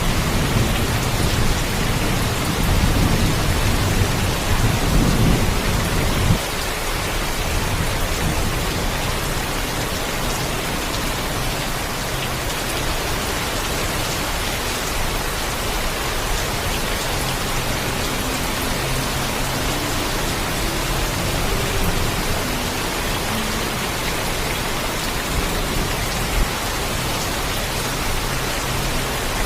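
Heavy rain falling steadily, with a low thunder rumble in the first six seconds that cuts off suddenly.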